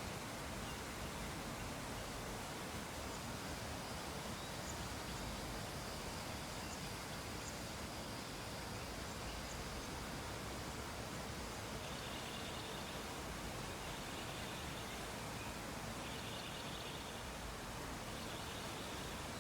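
Steady, faint background hiss. In the second half, faint high-pitched pulses come about every two seconds.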